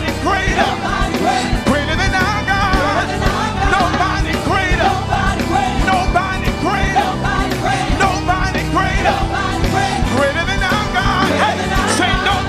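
Live worship band playing with voices singing over a steady drum beat.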